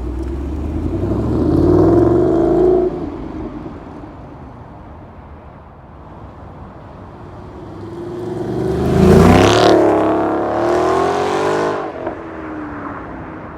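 2013 Ford Mustang GT's 5.0-litre V8 through a Corsa Extreme axle-back exhaust, revved twice with a lower idle rumble in between. The second rev, about nine seconds in, climbs sharply, is the loudest, and winds down over the next few seconds.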